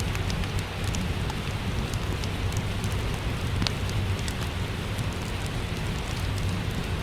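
Steady rain with a fireplace crackling, scattered sharp pops over an even wash of noise and a low rumble; one pop a little past halfway is louder than the rest.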